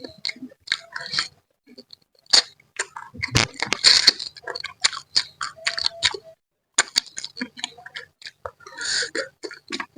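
Eating sounds from spicy manyung fish head in mangut sauce: wet chewing, lip smacks and sucking, in a quick irregular run of clicks and smacks with a few short hissing breaths.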